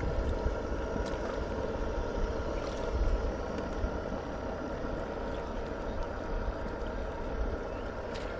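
Scratch-built radio-controlled model fire boat running, its motor giving a steady hum with a few faint steady tones over a low rumble.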